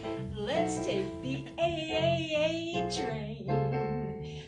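Jazz trio playing: a woman singing with vibrato over a bass line of evenly spaced low notes and keyboard.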